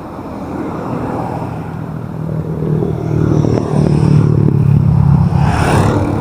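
Road traffic: a motor vehicle engine running steadily under a rushing noise, growing louder over the first few seconds.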